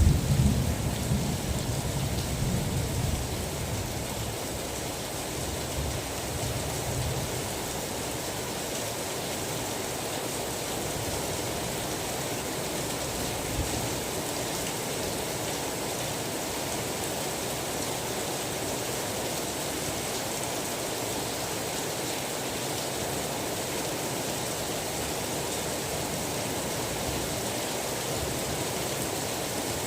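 Steady heavy rain. A low rumble of thunder dies away over the first several seconds.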